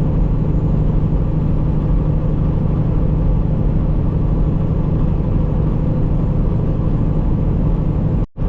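Semi truck's diesel engine and road noise droning steadily while driving. The sound drops out for an instant just before the end.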